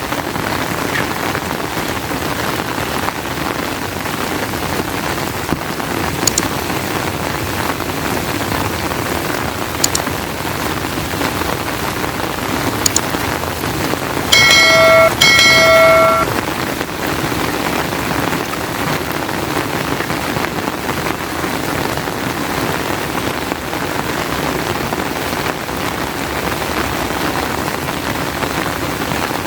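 Steady rain falling, with a few faint drip ticks. A little past the middle, a vehicle horn sounds two short honks.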